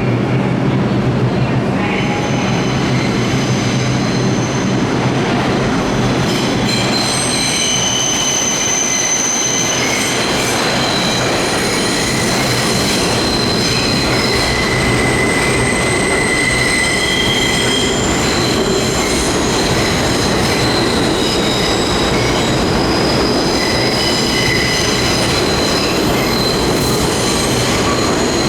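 New York City subway train of R62A cars running on the track with its steel wheels squealing, several high steady squeal tones rising and fading in turn over the rumble of the wheels on the rails. A low hum in the first couple of seconds fades out as the squealing sets in.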